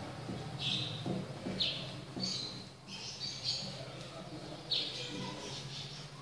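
Short high chirps from small birds, about half a dozen in irregular succession, over a low steady hum.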